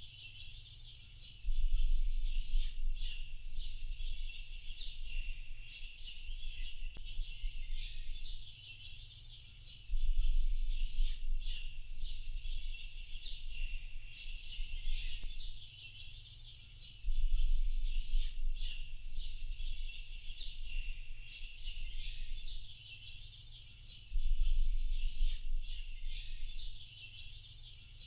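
A dense chorus of many small birds chirping and calling, high-pitched and continuous. Under it is a low rumble that comes in abruptly about every seven seconds and then fades away.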